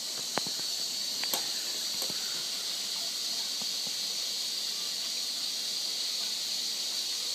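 Bendix 7128 washing machine running, giving a steady hiss like water flowing in, with a few light clicks in the first couple of seconds.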